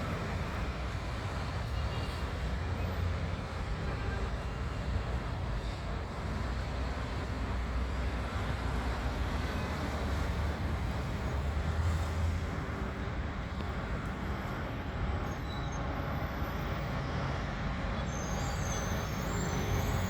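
Busy city road traffic, buses and cars passing, as a steady low rumble.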